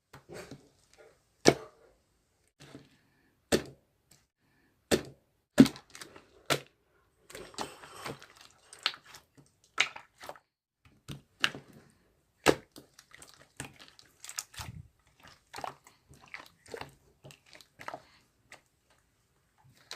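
A series of sharp, irregular clicks and knocks, about one a second at first and more frequent later, with a brief rustling stretch about eight seconds in.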